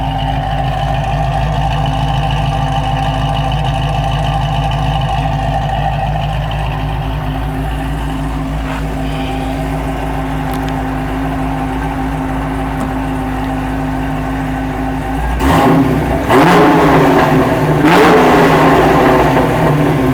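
2005 Pontiac GTO's 6.0-litre LS2 V8, with an aftermarket cam and exhaust, idling with a lumpy, uneven beat. About three quarters of the way in it is revved in a few quick blips, two or three, louder than the idle, then drops back to idle.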